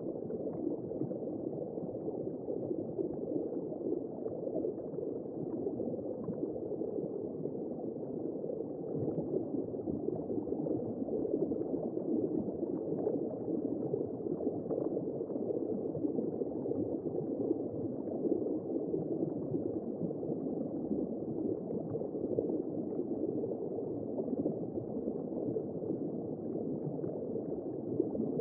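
Womb-sound white noise for settling a baby to sleep: a steady, muffled whooshing with no beat or tune.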